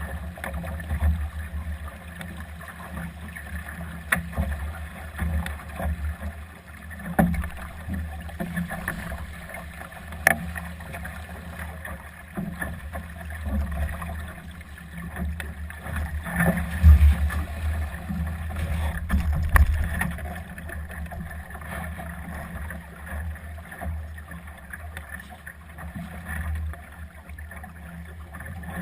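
Gusty wind buffeting the microphone as a Winder Solo sailing dinghy sails in 15–25 knot winds, with water noise along the hull and scattered sharp knocks and slaps.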